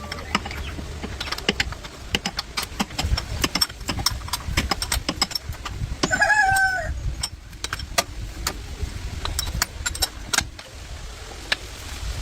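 Irregular sharp clicks and knocks over a low rumble, with one short pitched animal-like call about a second long, about six seconds in.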